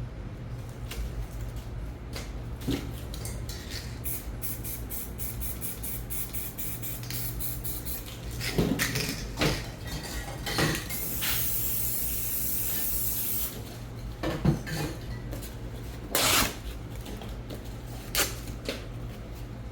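Aerosol spray paint cans spraying in several short bursts and one longer hiss of about two and a half seconds. Quick light clicks and clinks of cans and tools come before the bursts, over a steady low hum.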